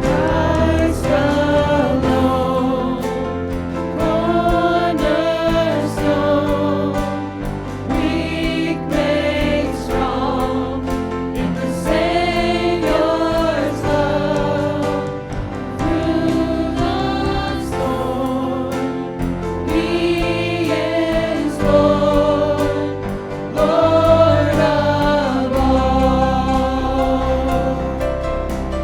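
Church music: voices singing a slow gospel song in phrases a few seconds long over sustained instrumental accompaniment.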